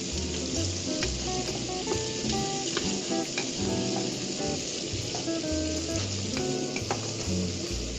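Food sizzling and frying in a hot kawali (wok) while being stirred with a spatula, with a steady hiss and occasional light clicks of the utensil against the pan.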